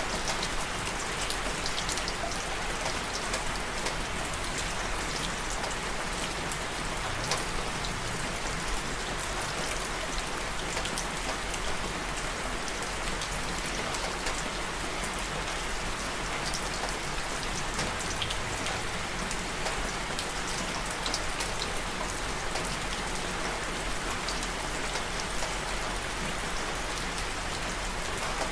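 Steady rain falling, an even hiss with many individual drops pattering sharply on a hard surface close by.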